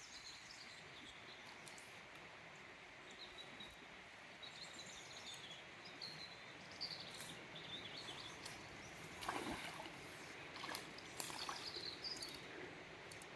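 Fast-flowing stream water running steadily, with small songbirds chirping and singing over it. A few brief knocks come in the second half.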